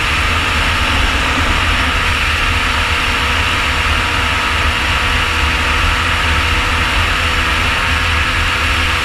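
Sport quad engine, a 2018 Yamaha YFZ450R's single-cylinder four-stroke, running at a steady speed under way, with heavy wind rumble on the microphone.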